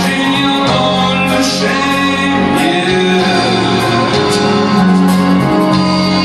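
Live band music with singing: a slow song played with long held notes.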